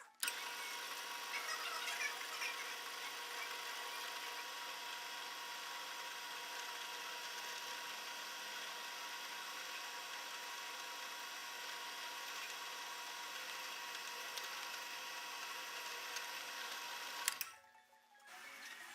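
Workshop power tool running steadily with a constant whine. It starts abruptly and cuts off suddenly near the end.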